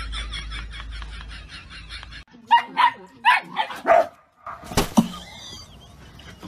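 Puppy yapping: a quick run of about five short, high barks, followed by a single sharp knock.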